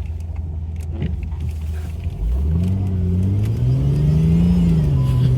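Jeep's engine heard from inside the cab: low and steady at first, then revving up about two seconds in and held at higher revs as the vehicle accelerates on snow.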